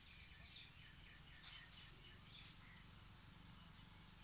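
Faint birds chirping: several short, high whistled notes and chirps, a few close together about a second and a half in, over a low steady rumble.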